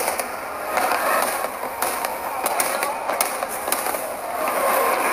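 Aerial fireworks bursting and crackling: a dense run of sharp cracks and pops over a rushing, hissing wash that swells and fades.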